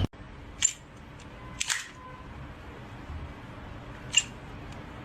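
A few short, sharp clicks at uneven intervals, the second a quick double, over a steady low hiss.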